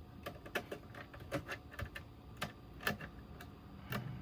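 Light plastic clicks and taps at uneven intervals, about one or two a second, from hands handling the oscilloscope's parts.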